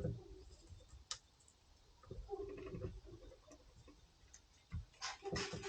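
Scattered light clicks and metallic clinks of hand tools and parts being handled on a CV axle at a workbench, with a cluster of clinks about two seconds in and another near the end.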